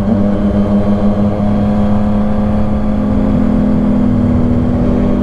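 Motorcycle engine running at nearly steady revs while riding along, over a low rumble.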